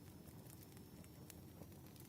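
Wood fire burning softly: faint scattered pops and crackles over a low steady rumble.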